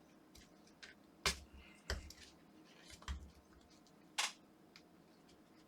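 Four sharp, separate clicks and knocks of tools and hands working at the plastic housing of a Philips Sonicare electric toothbrush, prying at its stuck internals.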